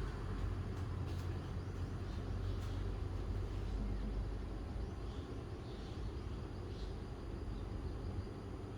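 Outdoor ambience: a steady low rumble, with a few faint, short high chirps in the second half.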